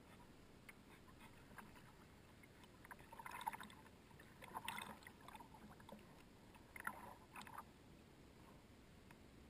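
Near silence broken by three faint splashes of a kayak paddle dipping into calm water, a second or two apart.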